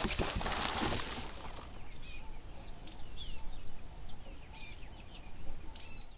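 Birds chirping, a scatter of short calls over a steady outdoor background noise, with a louder rush of hiss in the first second.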